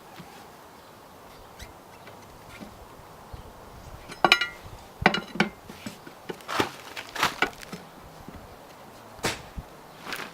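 A quiet start, then a series of sharp knocks and clanks at uneven intervals, about seven in all, the first with a brief metallic ring.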